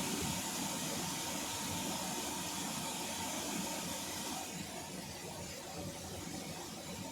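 A steady rushing hiss with a low rumble underneath; the hiss fades about four and a half seconds in.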